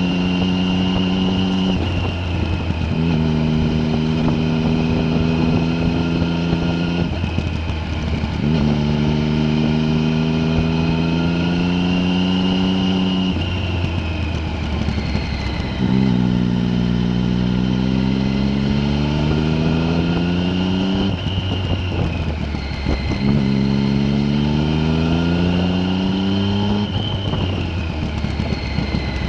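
A vehicle engine pulling under load. Its revs climb steadily through each stretch, then break off about every five to eight seconds for a gear change or a lift off the throttle. A high whine rises and falls along with the revs.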